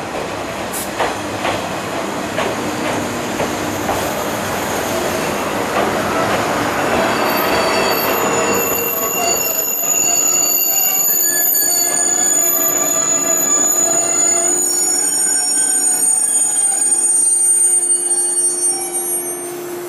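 583 series electric train pulling into a station platform: a few wheel knocks over rail joints at first, then brake and wheel squeal in several steady high tones that grow louder as it slows. The squeal cuts off near the end as the train comes to a stop.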